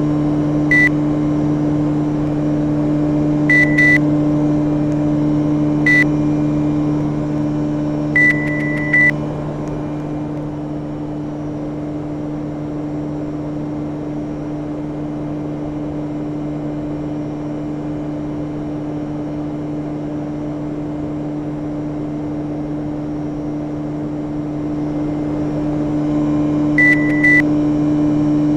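Panasonic inverter air conditioner running with a steady low electrical hum. Short high-pitched beeps come once, in pairs and in a quick run during the first ten seconds, then a pair near the end. The hum eases slightly after about ten seconds and swells again near the end.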